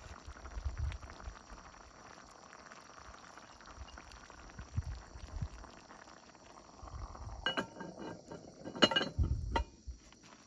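Light clinks and knocks of cookware or utensils being handled, clustering in the last few seconds with the sharpest clink shortly before the end. Underneath is a faint steady chirring of insects.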